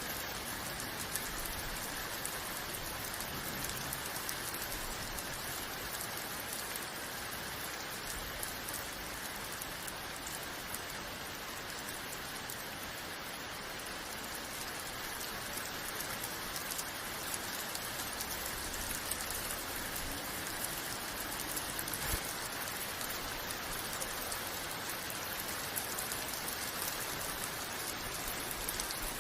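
Steady rain falling: a dense, even hiss of drops landing on a surface, with fine scattered taps and one slightly louder tap about three-quarters of the way through.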